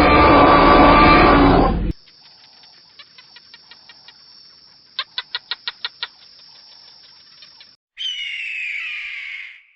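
Animal calls in three quick cuts: first a loud, rough, noisy call lasting about two seconds, then a quiet stretch with a quick run of short bird chirps, about six a second, then a single call that falls in pitch near the end.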